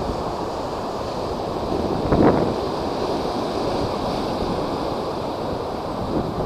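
Typhoon-driven high waves surging and breaking, with wind buffeting the microphone; one louder wave crash about two seconds in.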